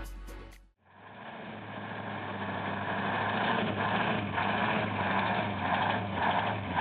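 Background music fading out in the first second, then a heavy truck's diesel engine running steadily under load, fading in after a short gap.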